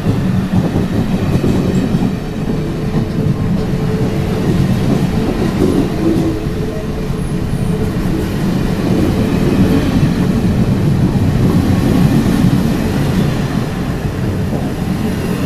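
Train running on rails: a loud, steady rumble of the locomotives and the wheels on the track.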